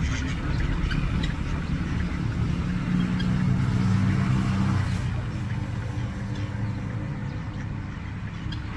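A motor running with a low steady rumble that swells a little around the middle, then eases toward the end.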